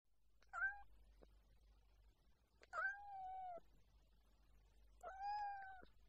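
Domestic cat meowing three times: one short meow, then two longer, drawn-out ones.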